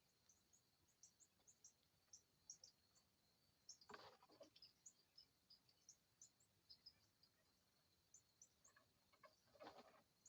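Faint chirping of small birds: many short, high chirps scattered throughout over a steady high hum. Two brief rustling sounds stand out, about four seconds in and near the end.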